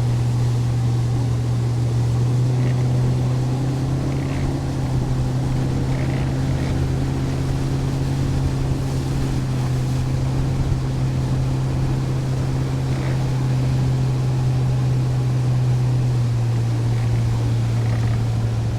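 A boat motor running steadily under way, a constant low hum with water and wind noise over it.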